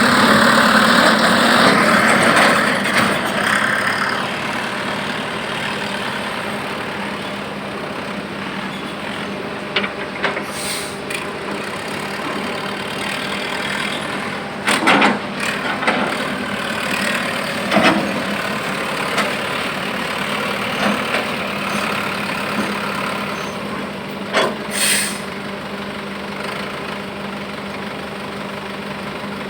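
A heavy vehicle's engine running steadily, louder for the first few seconds and then settling. A few brief sharp noises come around the middle and again about three-quarters of the way through.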